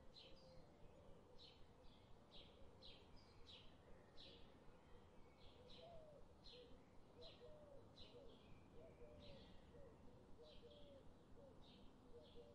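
Faint bird chirping: a short high chirp repeated roughly every half second, with softer, lower warbling notes beneath.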